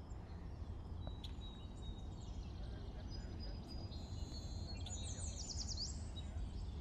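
Birds chirping and whistling over a steady low outdoor rumble, with a fast trill of repeated down-sweeping notes about five seconds in.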